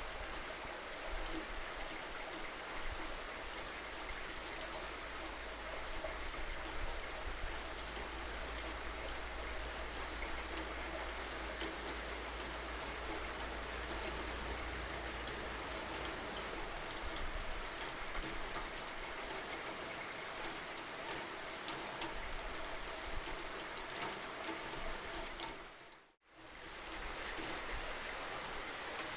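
Steady rain falling, an even wash of drops hitting surfaces. Near the end it dips briefly to silence and swells back.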